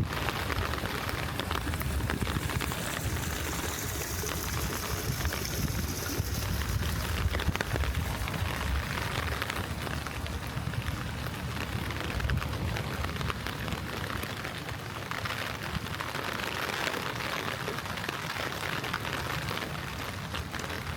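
Spring rain falling steadily: an even hiss of rain with many small drop ticks, over a low rumble.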